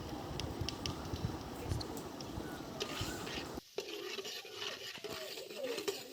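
Whole cumin, garlic, cloves, cardamom and cinnamon frying in hot ghee and refined oil in a pressure cooker, stirred with a spoon, with light clicks of the spoon against the pot. The sound changes abruptly a little past halfway.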